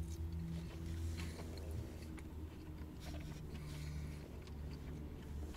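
A man chewing a forkful of poutine, soft faint chewing noises, over a steady low hum inside a car's cabin.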